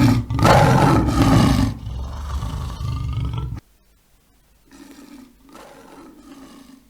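A lion roaring: one loud roar that cuts off suddenly about three and a half seconds in, then a fainter, lower call about a second later.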